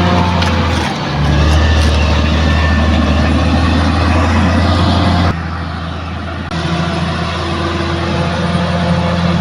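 Bulldozer's diesel engine running steadily with a low drone, easing briefly about a second in. About five seconds in the sound suddenly drops in level and returns about a second later.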